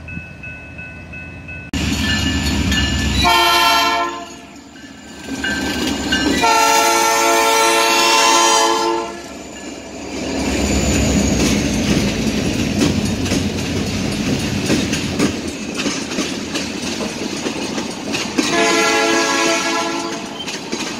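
A freight train's diesel locomotive air horn sounds a short blast, then a long blast, as it approaches a grade crossing: the crossing warning signal. Then comes the steady rumble and clacking of tank cars rolling past, and the horn sounds again near the end.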